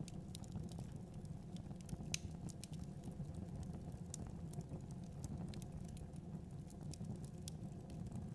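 Wood fire crackling in a fireplace: scattered sharp snaps and pops, the loudest about two seconds in, over a steady low rush of the burning fire.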